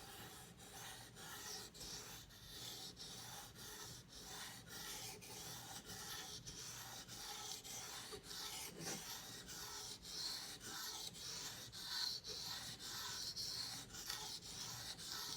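Steel knife blade being drawn back and forth across a wet 1000-grit King whetstone, a gritty scraping in quick, even strokes of about three a second: the edge is being touched up on the stone.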